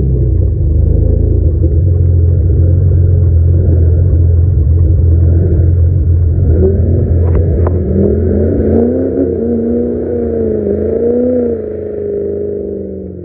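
Dodge 350 diesel truck running with a heavy low rumble, its engine revving up and down from about eight seconds in. Two sharp clicks come just before that, and the sound fades toward the end.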